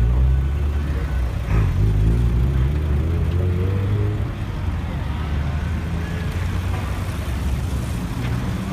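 Vehicles driving slowly past at close range, their engines a low rumble at low revs, loudest in the first few seconds as a van passes, with voices from the crowd mixed in.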